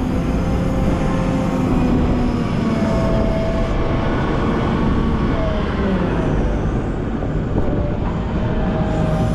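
Volvo L90F wheel loader's diesel engine running under load, its pitch rising and falling several times as the machine works the bucket through snow.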